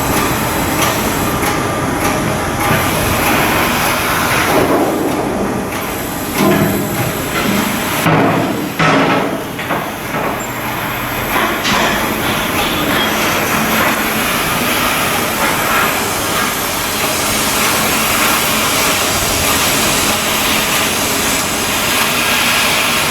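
Shipyard work on a steel hull: a steady mechanical din with metal knocks and clanks, heaviest a few seconds in.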